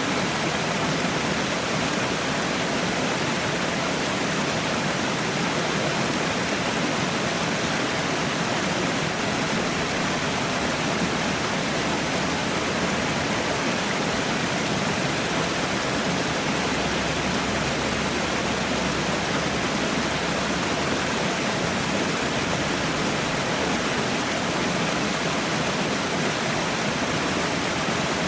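Falling water, a steady rushing like a small waterfall, running evenly throughout.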